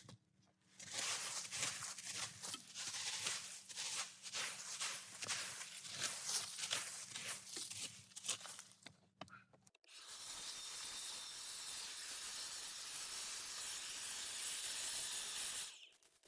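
Leaves being cleared off a path in quick, irregular scraping strokes. About ten seconds in, a steady hiss starts abruptly, runs for about six seconds and cuts off suddenly.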